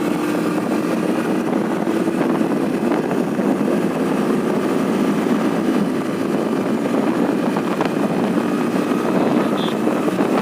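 TVS Apache RTR 200 4V motorcycle being ridden at a steady speed, its single-cylinder engine running with a steady, even note under a constant rush of noise.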